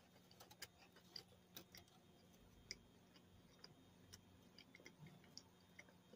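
Near silence, with faint, irregular soft clicks and smacks of a mouth chewing a crispy chicken sandwich, over a faint steady hum.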